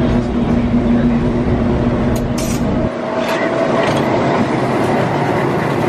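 Running noise of a local passenger train, heard from its open doorway as it gets under way: a steady rumble with a hum. About three seconds in, the deep rumble drops away and a whine rising slightly in pitch comes in.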